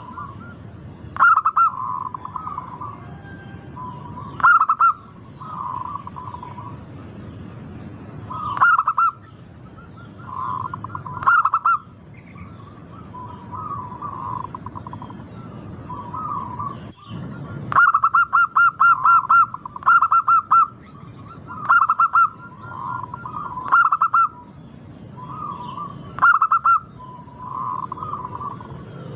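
Zebra dove cooing: phrase after phrase of quick stuttering notes, each opening with a loud run of rapid notes and trailing into softer coos, about every two to three seconds, over a steady low background hiss.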